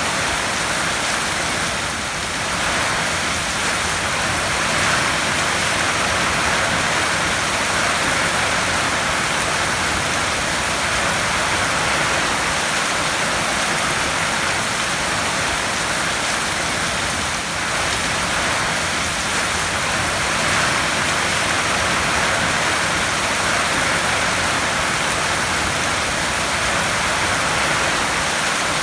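Heavy rain drumming steadily on a tin roof, a dense even patter.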